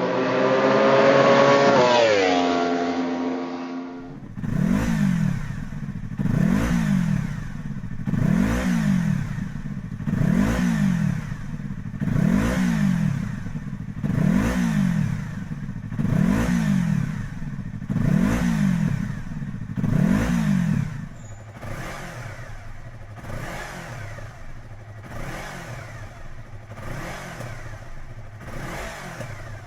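Yamaha MT-25 parallel-twin exhaust through a titanium slip-on muffler. After an opening rev-like sound whose pitch climbs and falls and is cut off about four seconds in, the engine is blipped about nine times, roughly every two seconds, each rev rising and falling back. It then settles into a steady idle.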